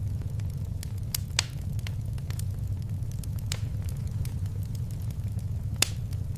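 Wood fire crackling in a fireplace: scattered sharp pops, two louder ones about a second in and near the end, over a steady low rumble of the burning fire.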